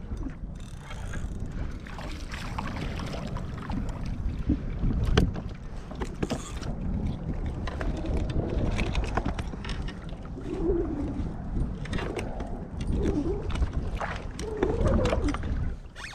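Wind buffeting the microphone in a steady low rumble, with scattered clicks and knocks from gear being handled on the kayak.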